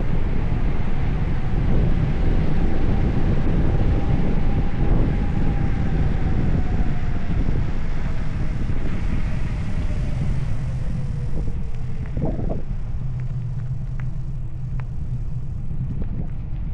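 Wind buffeting the microphone with a steady low rumble, while a faint engine-like tone slowly falls in pitch through the middle; a few short ticks near the end.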